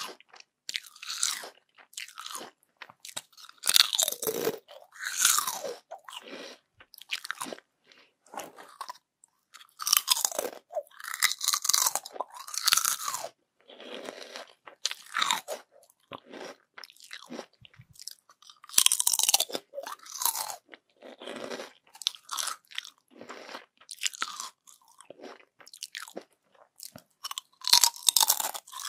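Crispy yam chips being bitten and chewed: clusters of sharp, dry crunching, mouthful after mouthful, with short quiet gaps between bites.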